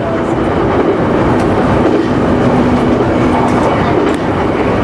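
JR Nikkō Line local electric train running between stations, a steady rumble of wheels on the rails. A faint steady tone comes in about two seconds in.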